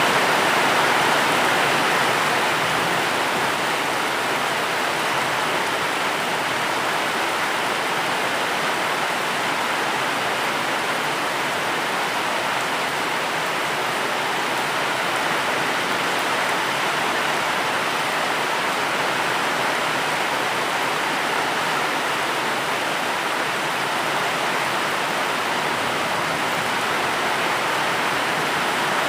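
Steady heavy rain, an even hiss with no single drops, thunder or changes standing out.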